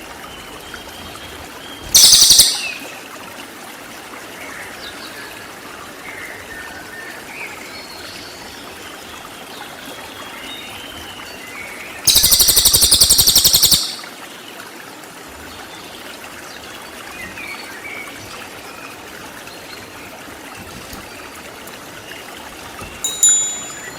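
Cililin songbird giving loud, rapid, high-pitched trilled 'tembakan' bursts. There is a short one about two seconds in, a longer one lasting nearly two seconds near the middle, and a brief one near the end. Between them are soft scattered chirps over a steady background hiss.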